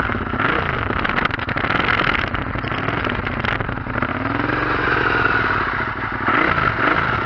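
Suzuki SV650S V-twin engine running through a Delkevic 350 mm oval stainless exhaust with the baffle removed, revved up and down a few times. A little meaner without the baffle.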